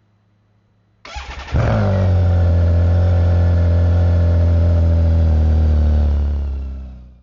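BMW K1600GT motorcycle's inline-six engine starting: a brief crank about a second in, then it catches and settles into a loud, steady idle with a slight drop in pitch, fading out near the end.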